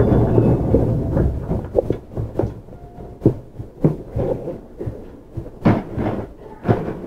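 Train rumble heard from inside a JR Central 315 series electric car: a loud rumble that came on suddenly just before eases off, broken by about half a dozen irregular sharp knocks.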